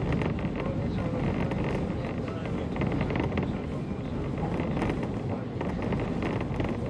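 Steady running noise of a moving JNR 185-series electric train, heard from inside the passenger car.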